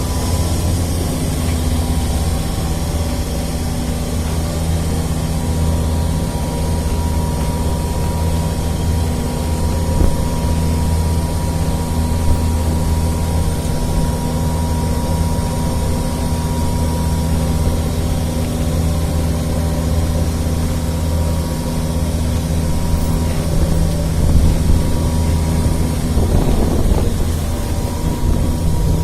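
An engine running steadily at an even speed, a constant low hum with a faint thin high tone above it.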